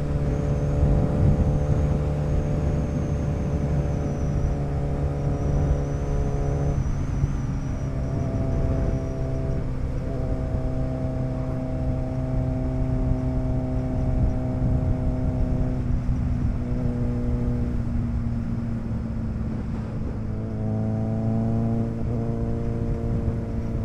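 Motorcycle engine running at a steady cruise on the road, with wind and road noise. The engine note shifts pitch a few times as the throttle or gear changes.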